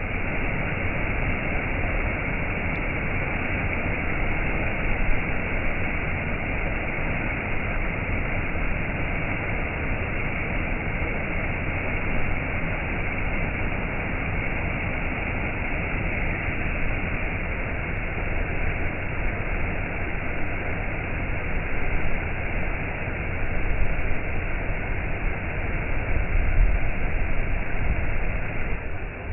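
Waterfall: a steady rush of falling water with a deep rumble underneath, swelling slightly now and then.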